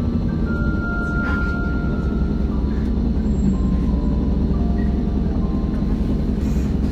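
Hino Blue Ribbon city bus running, heard from inside the cabin: a steady low engine and road rumble with a few faint thin whining tones above it.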